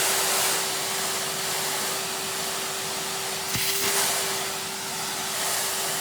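A Numatic Henry cylinder vacuum cleaner running steadily, with a constant motor whine over the rush of air, sucking up thread from the floor. About three and a half seconds in there is a brief louder rush of suction with a knock.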